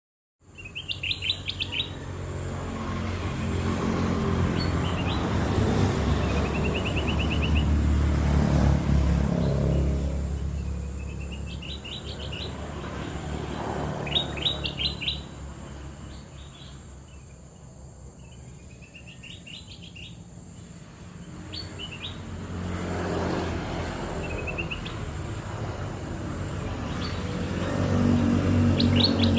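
Kutilang emas bulbul singing: short bursts of quick chirping notes, repeated every few seconds. Underneath runs a low rumbling background noise that swells and fades.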